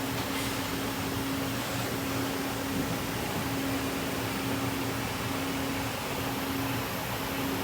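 Steady machine hum with an even hiss of moving air and no strokes or changes, typical of powered-on shop equipment or ventilation.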